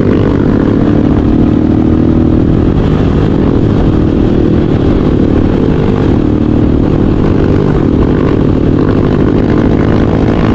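Motorcycle engine running at a fairly steady pitch while riding.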